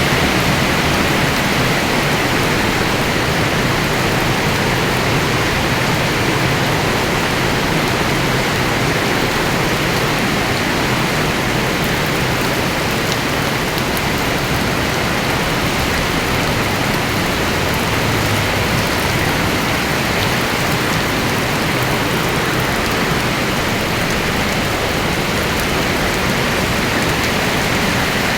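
Heavy rain pouring down and drumming on surfaces, a dense steady hiss.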